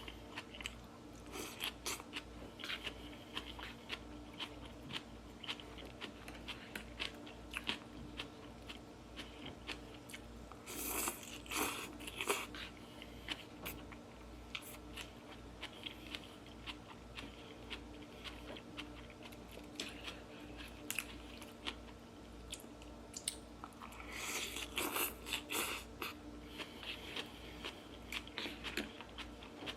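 Chewing and wet mouth sounds of a person eating, with many small clicks throughout and two louder, longer stretches, one near the middle and one about three-quarters of the way in.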